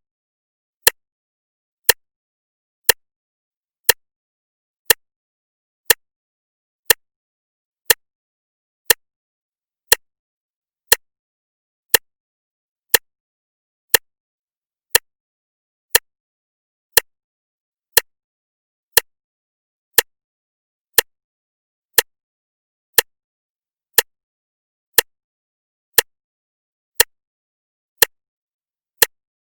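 Clock ticking steadily once a second, each tick sharp and short with silence between.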